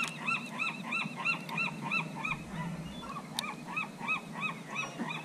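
Birds calling in a fast, even series of short honking notes, about five a second, each rising and falling in pitch. A single sharp click sounds about three and a half seconds in.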